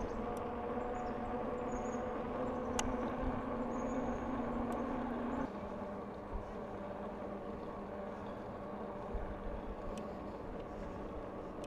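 Riding noise from a moving bicycle: wind rumble on the microphone with a steady hum from the bike, the hum dropping off suddenly about five and a half seconds in, with a few faint clicks.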